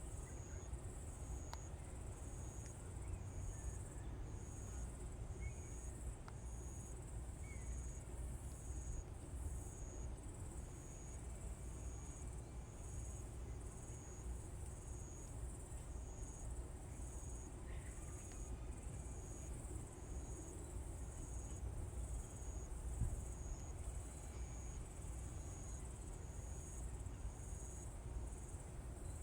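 Insect chirping steadily in short, even pulses, about two a second, over a steady low rumble.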